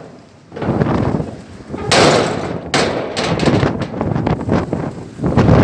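Windstorm gusts buffeting the microphone, surging and easing several times; the loudest gusts come about two seconds in and near the end.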